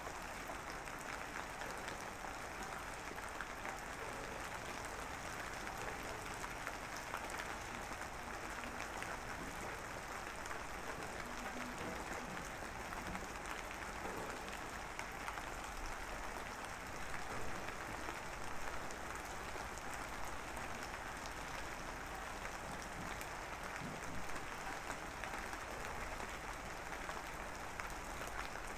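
Steady rain falling, an even, unbroken sound of many drops.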